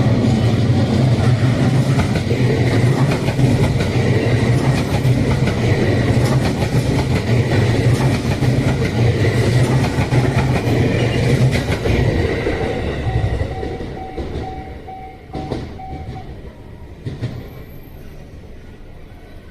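A 287-series electric limited express train runs past over the rails with wheel clatter. The noise stays loud for about twelve seconds, then fades. As it fades, the level crossing's warning bell comes through as a rapid string of dings and stops about sixteen seconds in.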